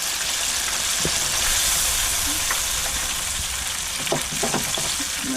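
Breaded fish chunks deep-frying in hot oil in a small electric deep fryer: a steady, even sizzle, with a few faint clicks about a second in and around four seconds in.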